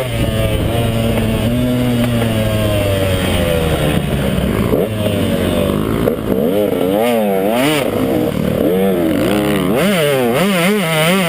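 KTM 150 XC two-stroke dirt bike engine running hard. Its pitch sags over the first few seconds, then it revs up and down rapidly, about two swings a second, as the throttle is worked over rough ground.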